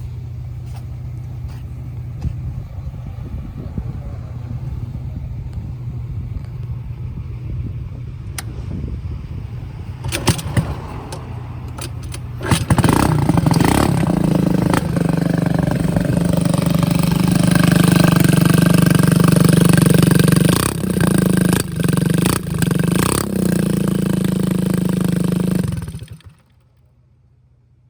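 Suzuki Choi Nori 50cc moped's single-cylinder four-stroke engine idling steadily through a rusted, leaking exhaust, then revved up about halfway through and held at higher revs, before cutting off suddenly near the end.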